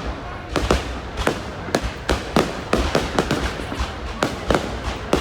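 Fireworks display going off: a continuous run of sharp bangs, two or three a second, over a steady crackle.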